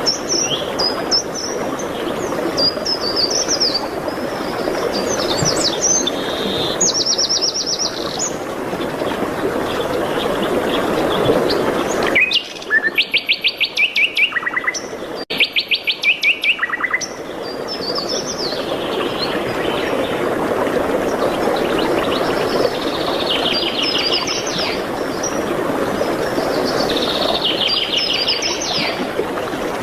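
Several songbirds singing in a forest, short chirps and whistled phrases with repeated trills, over a steady rushing background. About twelve seconds in, the background drops out and a loud, very fast trill takes over for about five seconds, broken by abrupt cuts, before the background returns.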